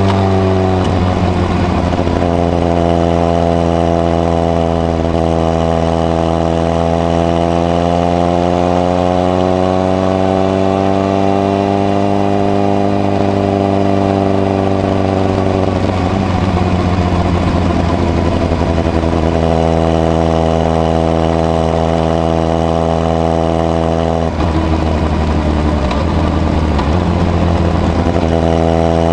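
Honda CBR1000RR (SC57) inline-four engine running under way through a modified Moriwaki exhaust with its baffle fitted. The engine note rises slowly, falls about halfway through, dips briefly a few seconds before the end, then climbs again.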